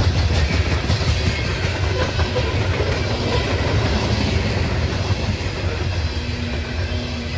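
Cars of a loaded coal train rolling past at speed: a steady rumble of steel wheels on rail with clickety-clack over the joints.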